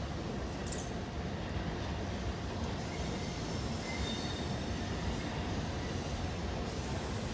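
Train rolling by: a steady rumble of wheels on rail, with a faint high squeal of wheels midway.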